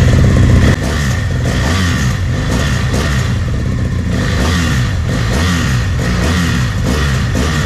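BMW F800R's Rotax-built parallel-twin engine running: a rev falls away about a second in, then it settles to a steady idle.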